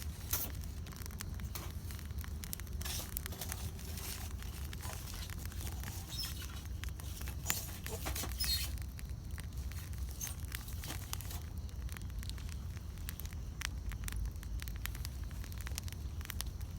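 Campfire burning: irregular crackles and pops from the burning wood over a steady low rumble of the flames, with a few louder snaps scattered through.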